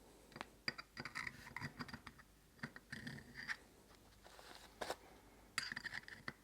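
Greasy engine parts being handled and wiped with paper: faint scratching and rustling broken by light clicks of small metal parts.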